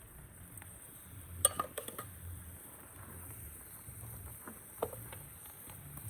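Dishes and utensils clinking: a quick cluster of sharp clinks about a second and a half in and another single clink near five seconds, over a low background rumble.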